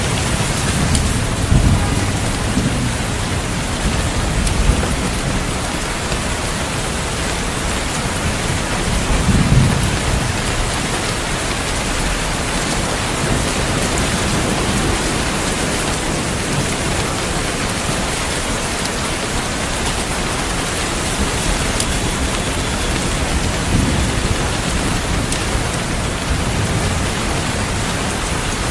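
Steady rain with low rolls of thunder, the strongest a second or two in and again about nine seconds in, with a weaker one near the end.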